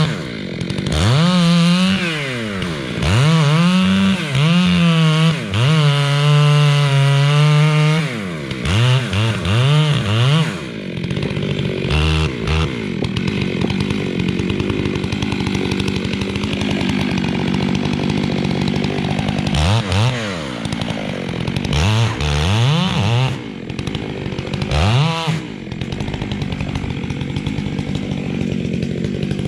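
Stihl 661C two-stroke chainsaw with a 36-inch bar. In the first ten seconds the engine revs up and down again and again, then holds steady under load, cutting into a large pine trunk. It revs up and down a few more times about two-thirds of the way through, then settles back into the cut.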